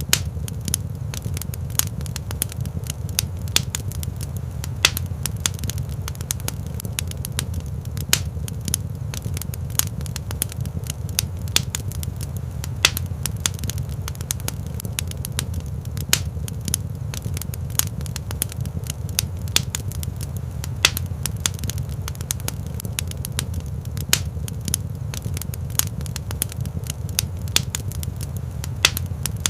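Wood fire burning in a rock fireplace: a steady low rumble of flames with frequent, irregular sharp crackles and pops.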